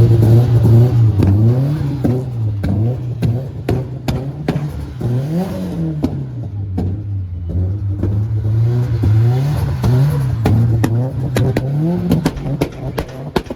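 Car engine revving up and down repeatedly, with many sharp cracks in between, then cutting off suddenly at the end.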